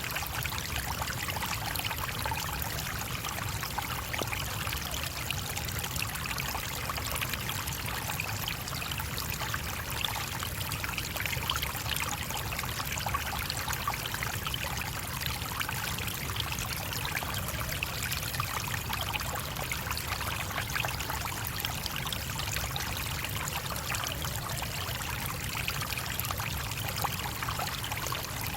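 Small stream of water running and babbling over rocks, a steady, unbroken rush with a trickling splash.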